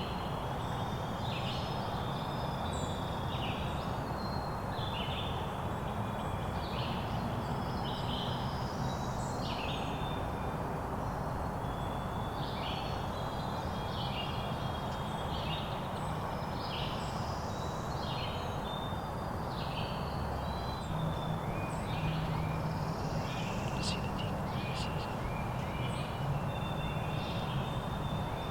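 Birds calling over and over in short, high calls, about one a second, over a steady outdoor hiss and low hum.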